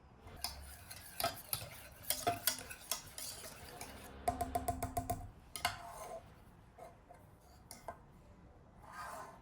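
A metal spoon stirring and clinking against a glass or dish, a series of sharp clicks with a quick run of ringing clinks about four to five seconds in.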